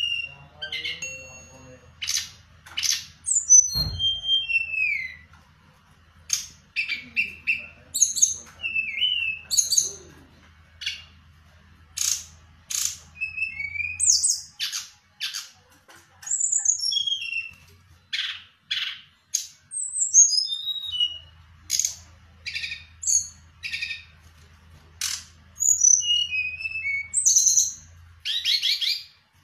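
A songbird singing in a long, lively run of sharp chirps and short whistled notes that slide downward, with brief pauses between phrases. A faint low hum lies under parts of it, and there is one thump about four seconds in.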